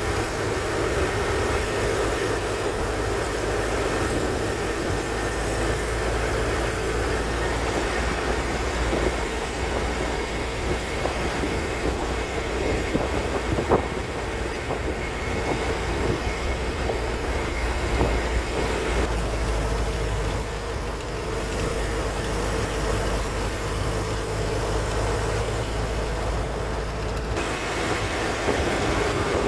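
Truck running along a road: a steady engine rumble and road noise, with a few short knocks.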